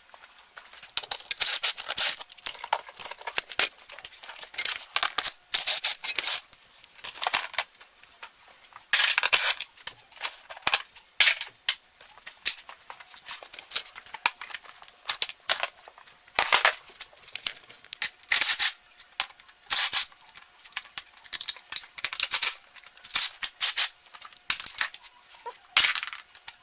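Irregular sharp clicks, scrapes and rustles of hard plastic being handled and pried loose: the seat and plastic bodywork coming off a 2004 Suzuki RM125 dirt bike.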